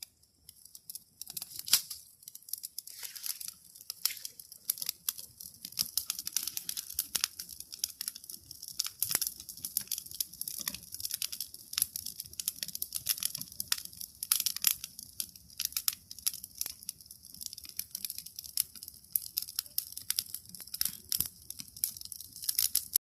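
Small fire of dry birch twigs and leaves crackling densely, a fast irregular run of sharp pops and snaps that never lets up.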